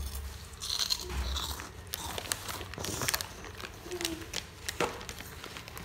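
A child chewing and crunching puffed shrimp snack chips (prawn crackers) in irregular crisp crunches, with a short hum about four seconds in.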